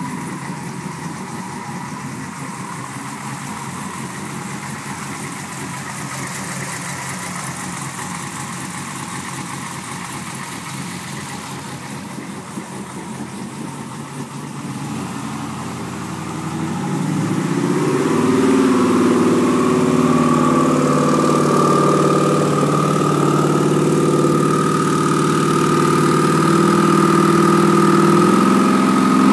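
Twin-turbo Dodge Challenger SRT8's V8 running at a steady idle, then growing louder a little past halfway and holding there, with a steady high whine over the engine note.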